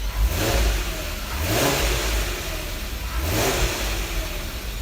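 3.6-litre VR6 engine (from a Passat R36) revved three times, each rev a rising swell over a steady rumble. It runs through a makeshift exhaust of the 3.6 downpipe and cat joined to the 3.2's rear muffler, giving a kind of swooshy VR6 note.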